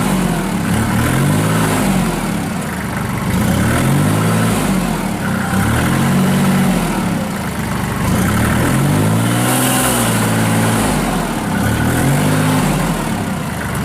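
Kubota L39 tractor loader backhoe's four-cylinder diesel engine running, its speed rising and falling over and over, a swell every couple of seconds.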